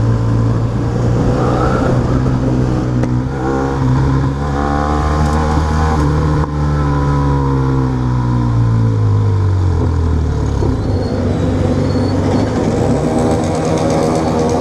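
Motorcycle engine running under way, its pitch climbing steadily over a few seconds and then dropping back as the bike accelerates and eases off.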